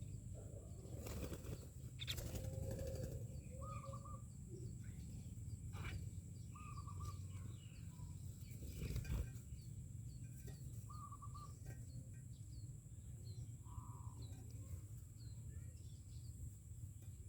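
Myna birds calling: a short wavering call repeats every few seconds, with faint high chirps between. A few brief rustles and a steady low rumble run underneath.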